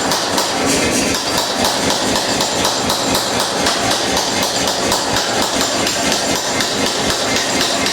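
Hammer blows forging a hot steel bar, fast and regular at about four blows a second, over a steady rushing noise.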